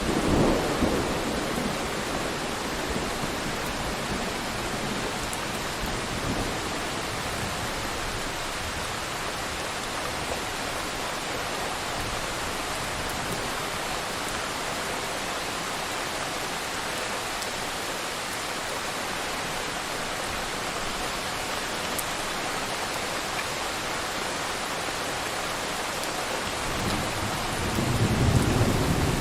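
Thunderstorm sound effect: steady heavy rain hissing, with a roll of thunder rumbling at the start and another building near the end.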